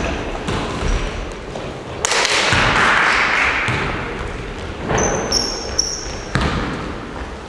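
Basketballs bouncing on a gym floor during practice, a series of separate thuds that echo in the hall, with a few short high squeaks about five seconds in.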